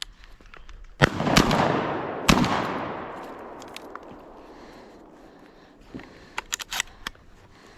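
Three shotgun shots in quick succession, about a second in, a moment later, and about a second after that, with a long rolling echo that dies away over several seconds. A few small sharp clicks near the end.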